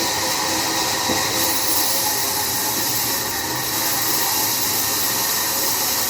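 Sawmill saw cutting through a log: a steady, even hiss with faint whining tones, unbroken throughout.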